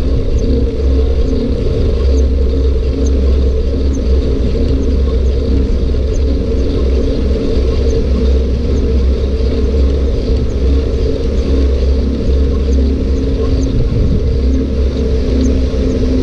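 Steady loud rumble of a bike ride: wind buffeting the microphone and the tyres rolling over the track, with a steady hum and faint irregular ticking over it.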